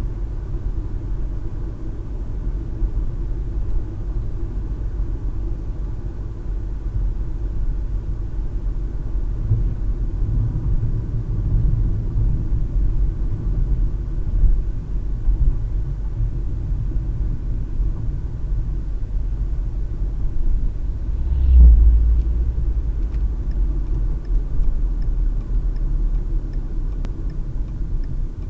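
Car interior road noise picked up by a dash cam: a steady low rumble of tyres and engine, with one heavier low thump about three-quarters of the way through. Near the end a faint, regular ticking starts, the turn signal clicking.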